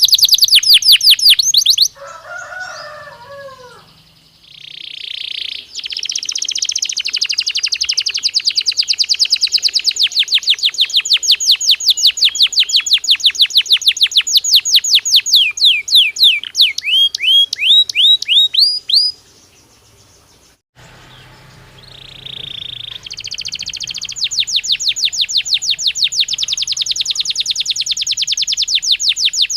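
Belgian canary singing in long, fast trills of rapidly repeated sweeping notes. A short buzzy note leads into the trills, and the notes slow into wider downward sweeps before a brief pause about two-thirds of the way through, then a new trill starts.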